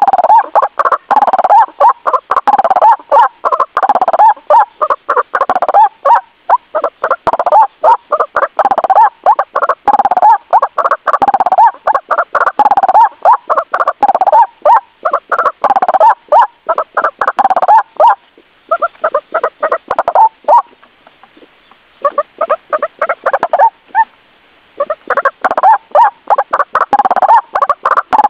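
White-breasted waterhen (ruak-ruak) calling: a fast, unbroken run of loud, repeated call notes, pausing briefly a few times past the middle. It is a lure call, meant to draw waterhens in.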